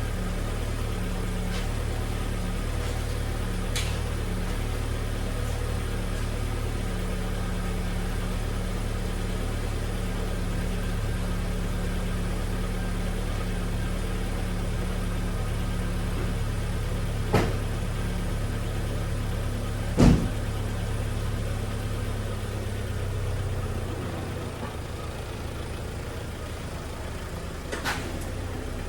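VW Passat engine idling steadily after being revived, with a few sharp knocks, the loudest about twenty seconds in; the engine sound drops a little quieter about three quarters of the way through.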